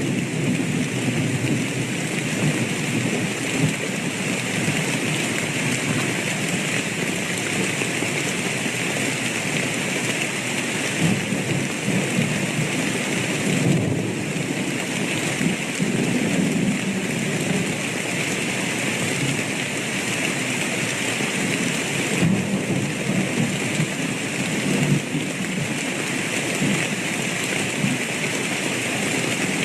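Steady rain falling, with low thunder rumbling underneath that swells and fades.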